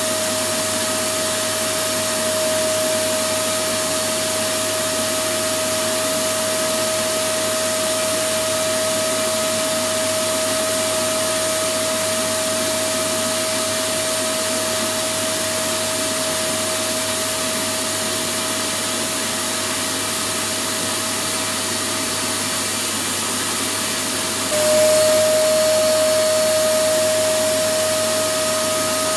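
Electric vacuum cleaner running steadily: a continuous rushing noise with a steady motor whine. Near the end it jumps a little louder, with a slight shift in the whine, then eases back.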